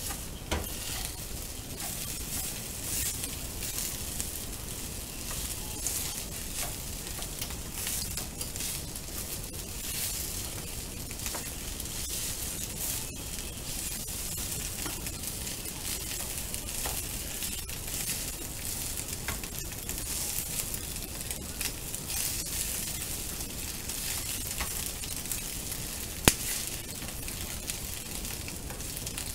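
Egg fried rice sizzling steadily in a frying pan as a slotted spatula stirs and turns it, with frequent light scrapes and taps of the spatula on the pan. One sharper knock comes near the end.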